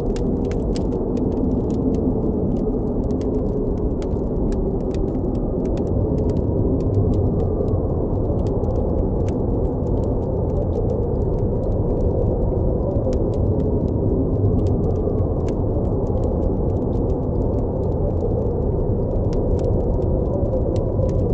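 Blizzard wind blowing steadily with a deep rumble and faint wavering whistles, over a campfire crackling with frequent sharp pops.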